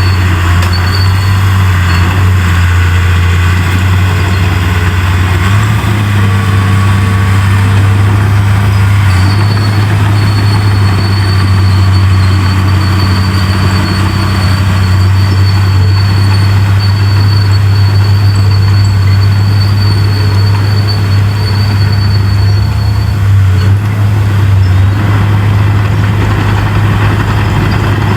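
Large bulldozer's heavy diesel engine running steadily under load, with a deep steady hum and a thin high whine over much of it.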